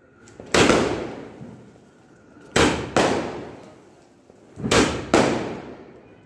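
A 60-shot firework repeater cake firing. There is a single sharp bang about half a second in, then two quick pairs of bangs about two seconds apart. Each bang dies away over a second or so.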